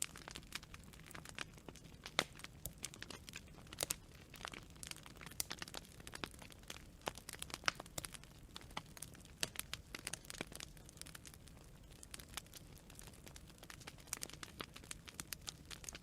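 Wood campfire crackling: irregular sharp snaps and pops, a few of them louder, over a low steady rumble of the flames.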